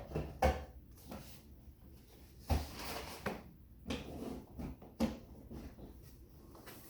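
Irregular knocks and clatters a second or two apart: a sharp pair just after the start, a longer rattling spell from about two and a half to three and a half seconds in, then single knocks near four and five seconds in.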